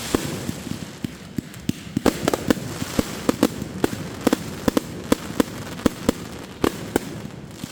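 Fireworks going off: many sharp pops and cracks at an irregular pace, a few to several a second, over a steady hiss in the first second.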